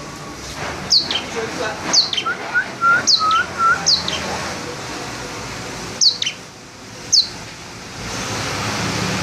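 A songbird calling a sharp, high whistled note that sweeps downward, repeated about once a second, with a run of short, lower rising chirps in between. A steady rushing noise swells near the end.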